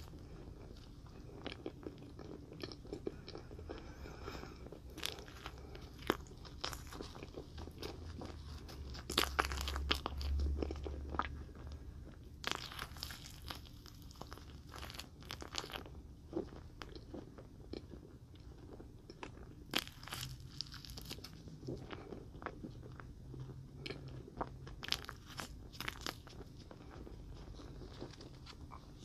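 Close-miked biting and chewing of green marshmallow chicks: soft, irregular mouth clicks and small crackles as the marshmallow is bitten off and chewed.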